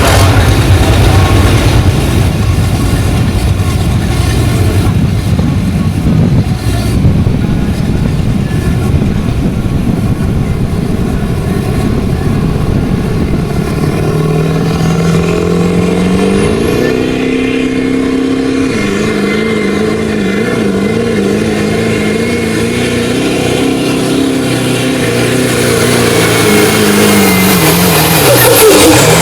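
Diesel pickup truck engine running hard under heavy load, pulling a weight sled, loud throughout. About halfway through, its pitch steps up for a few seconds and then drops. It wavers after that and sinks near the end as the truck bogs down.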